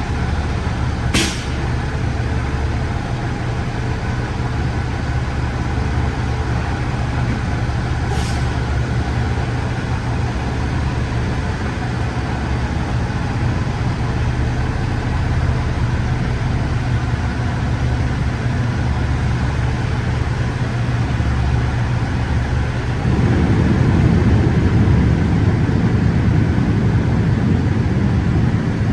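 Semi truck's diesel engine running at low speed while the truck is manoeuvred, with two short bursts of air hiss from the air brakes, about a second in and about eight seconds in. Near the end the engine gets louder as it is given more throttle.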